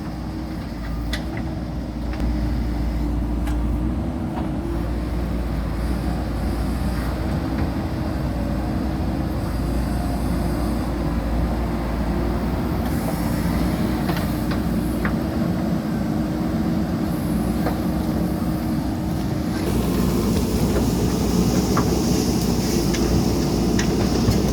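JCB backhoe loader's diesel engine running steadily under work, with scattered clicks and knocks of the bucket against rock and soil. About twenty seconds in the engine works harder and the sound gets louder.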